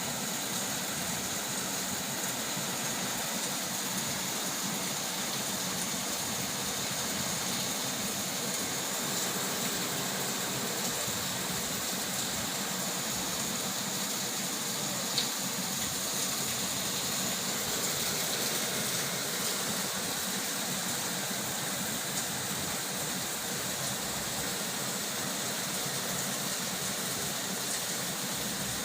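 Heavy rain falling in a steady downpour, with one brief click about halfway through.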